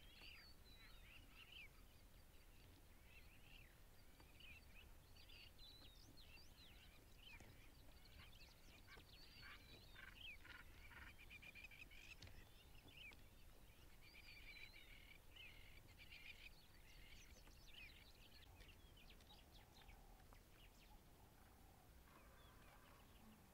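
Faint birdsong: many short chirps and calls from several birds, thinning out near the end, over a low steady rumble.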